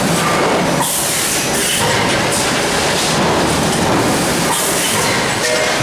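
Steady, loud mechanical running noise, like a rail vehicle in motion, with rushes of hiss coming back every second or so. It is recorded as an abnormal noise.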